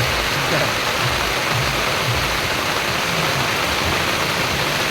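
Heavy rain falling hard, a dense steady hiss with a low rumble underneath.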